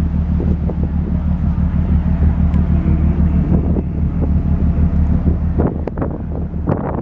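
Wind buffeting the microphone on a cruise ship's deck over a steady low rumble, with a few short knocks near the end.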